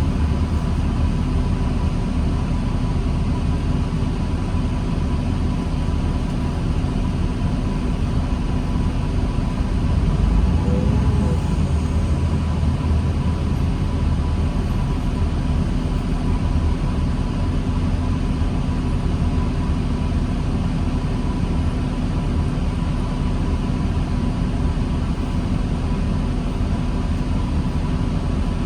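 Diesel engine of a 2009 New Flyer D40LFR transit bus running steadily, heard inside the bus, with a low rumble and a steady whine. The sound swells slightly about ten seconds in.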